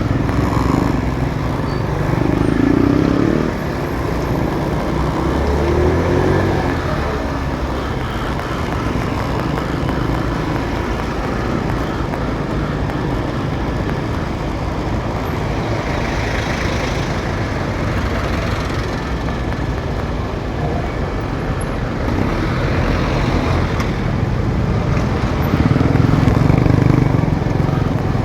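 Motorcycle riding in city traffic: steady engine and road noise mixed with the sound of surrounding cars and trucks, swelling louder a few times and most near the end.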